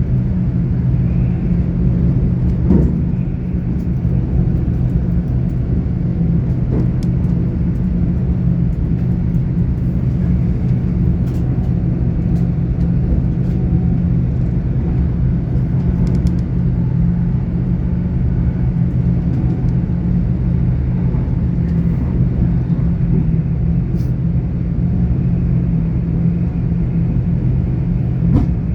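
GWR Class 800 IET train running, heard from inside the carriage: a steady rumble of wheels on the track with a low hum underneath, and a few faint clicks.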